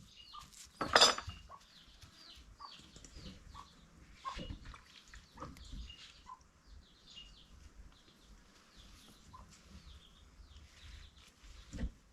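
Small birds chirping repeatedly, with one sharp ringing metal clank about a second in and a few lighter knocks later, like cooking pots and utensils being handled.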